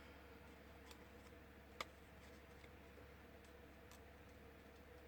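Near silence: room tone with a steady low hum and a few faint ticks, the clearest about two seconds in.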